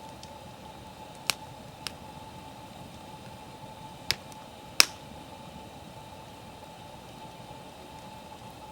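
Wood fire crackling: four sharp pops from the burning firewood, the loudest near the end, over a steady low hiss.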